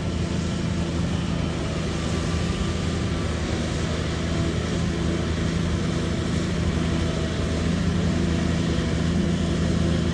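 Bulldozer diesel engine running steadily under work, the sound growing a little louder in the second half.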